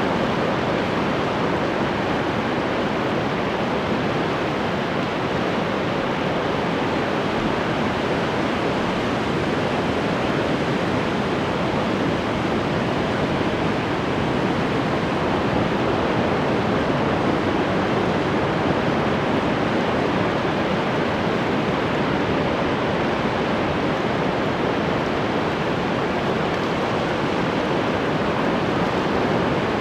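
Ocean surf: a steady, continuous wash of breaking waves with no distinct swells rising and falling.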